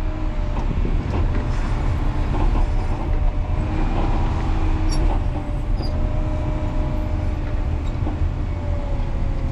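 John Deere 670G motor grader's diesel engine running steadily, heard from inside the cab, with a deep rumble and light rattling.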